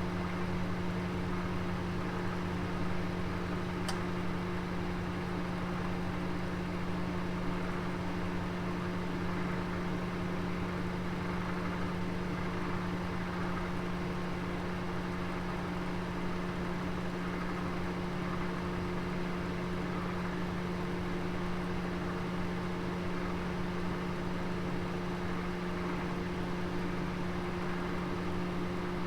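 Oven running with a steady hum over an even rushing noise, a roast cooking inside. One faint tick about four seconds in.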